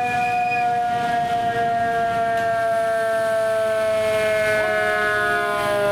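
Fire apparatus mechanical siren winding down, one loud wail whose pitch falls slowly and steadily. Near the end a second siren tone starts rising.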